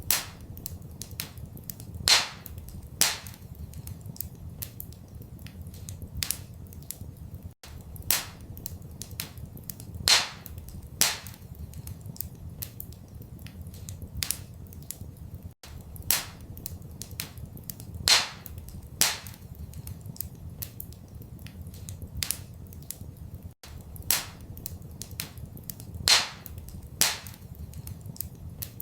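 Wood fire crackling in a fireplace: scattered small crackles and sharp pops over a steady low rumble. The recording is a short loop, and the same pair of loud pops comes back about every eight seconds.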